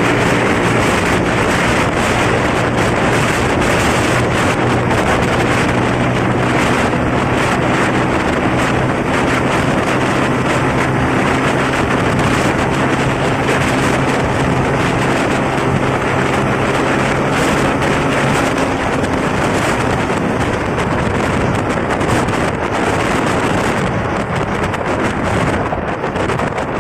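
Motorcycle engine running at a steady speed, with wind rushing over the microphone while riding. The engine's steady hum fades into the wind noise about two-thirds of the way through.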